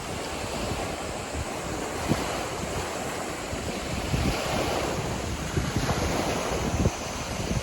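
Sea waves washing onto a sandy beach, with wind buffeting the microphone in short low thumps.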